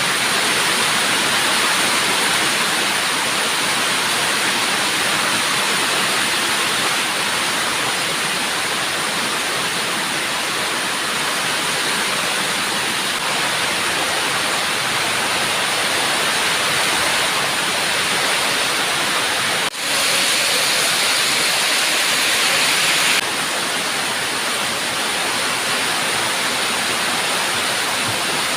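Heavy rain falling steadily, a dense even hiss, with a brief drop-out about twenty seconds in.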